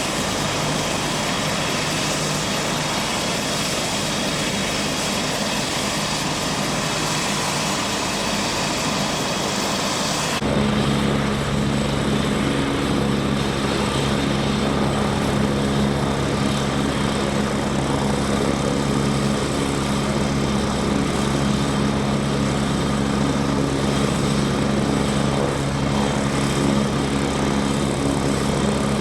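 Engines running steadily; about ten seconds in the sound changes abruptly to a closer, louder low hum with a fast even pulse.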